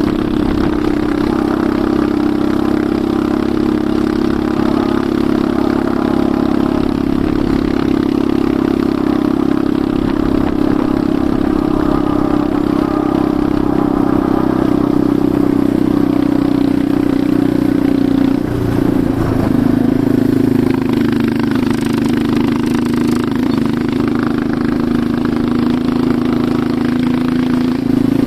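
Enduro motorcycle engine running steadily while riding, with a constant droning tone. About two-thirds of the way in it dips briefly and then settles at a slightly lower pitch.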